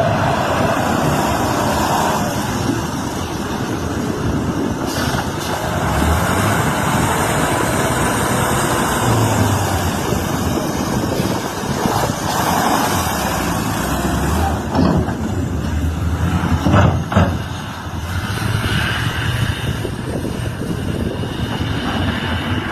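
Racing trucks' diesel engines running hard at speed, with a few sharp knocks about fifteen to seventeen seconds in.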